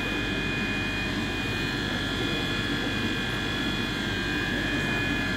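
Passenger train idling at a platform: a steady hum from its onboard equipment, with several high, even whining tones over it.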